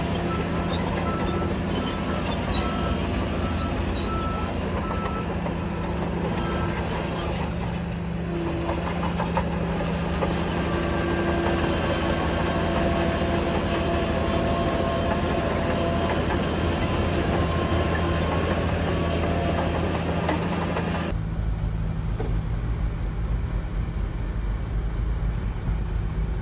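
Diesel engines of heavy earthmoving machinery running steadily, with a reversing alarm beeping for the first several seconds. About three-quarters of the way through, the higher part of the sound drops away abruptly, leaving a deeper engine rumble.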